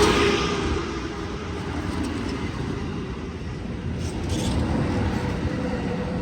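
Amtrak Capitol Corridor passenger train rolling slowly past along the platform, a steady rumble that eases about a second in. A faint steady whine joins about halfway through.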